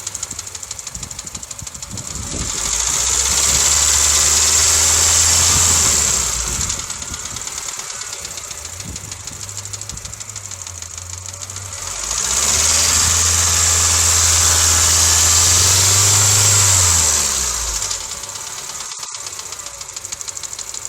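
2007 Honda Civic LX's 1.8-litre four-cylinder engine, warmed up, idling with a rattle. It is revved twice, each time held for about four seconds before dropping back to idle.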